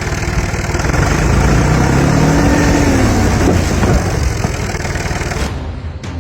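Tractor engine running under load, a heavy low rumble with its pitch rising and falling once near the middle.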